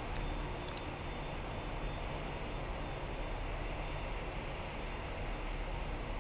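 Jet airliner engines running, a steady rumble and hiss with a faint high whine.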